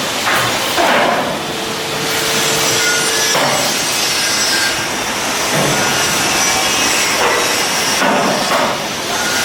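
Shipyard metalworking noise: a loud, steady hiss with scattered knocks, typical of hull work on a building berth.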